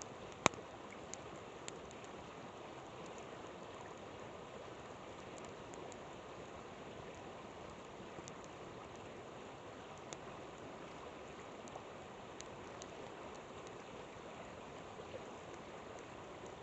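River water flowing steadily, with a campfire crackling: sharp pops scattered over it, the loudest about half a second in.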